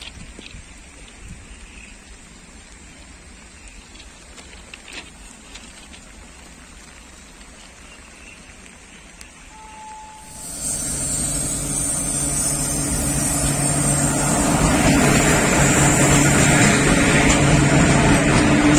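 Quiet outdoor background for the first half, then a locomotive-hauled freight train passing close by: a steady low engine hum with the wheels of covered wagons rumbling on the rails, getting louder as it comes alongside.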